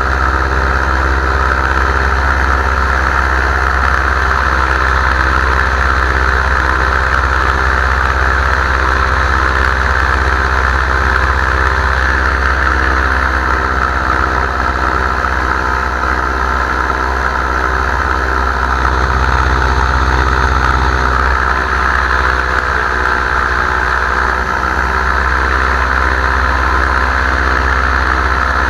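Paramotor engine and propeller running steadily in flight, a constant engine drone with no change in speed.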